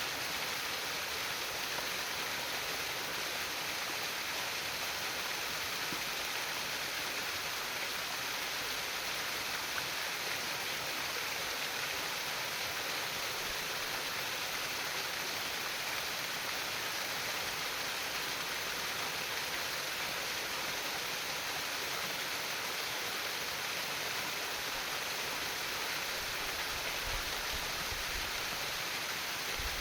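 Steady babbling of a flowing stream, water trickling over stones, even and unbroken.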